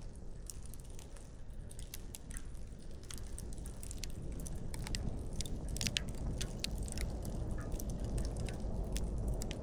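Wood campfire crackling: irregular sharp pops and snaps of burning firewood over a low steady rumble.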